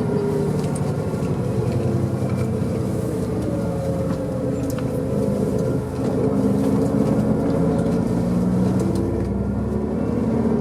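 Engine and road noise of a moving tour vehicle, heard from inside it. The engine's pitch slowly falls and rises again as it changes speed.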